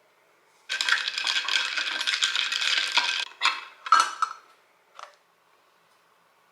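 Dense rattling clatter of small hard objects knocking together, starting about a second in and lasting about two and a half seconds, then a few shorter clinks and knocks.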